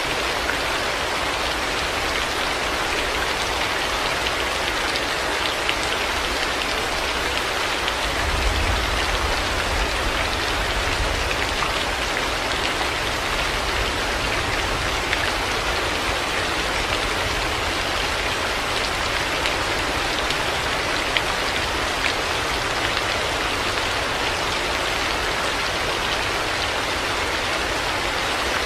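Heavy rain falling steadily, a dense even hiss of drops. A low thunder rumble swells for a few seconds about eight seconds in.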